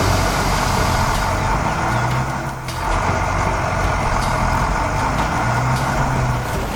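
Truck engine running steadily, easing briefly about two and a half seconds in.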